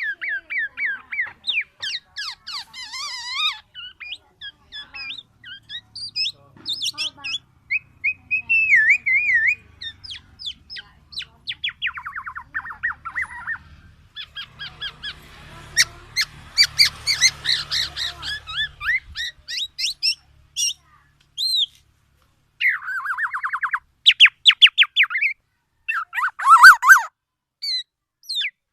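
A black-naped oriole (kepodang emas) singing and calling: quick chirps, trills and rapid sliding whistled phrases with short pauses between them, a harsher, scratchier stretch midway, and the loudest phrases near the end.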